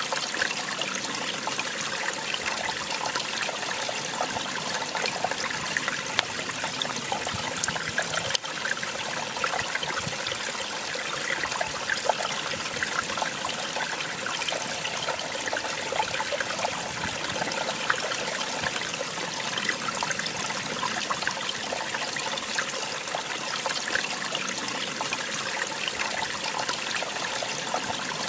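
Small waterfall running steadily, water splashing and trickling, with a single sharp click about eight seconds in.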